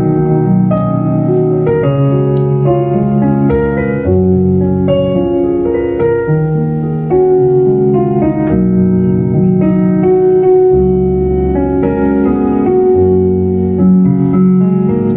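Instrumental passage played on a keyboard with a piano-like sound: held chords over a moving bass line, with melody notes on top and no singing.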